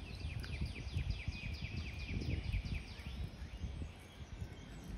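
A songbird singing a fast trill of about fifteen notes, each sliding down in pitch, that stops a little past halfway. Underneath runs a low crackling noise.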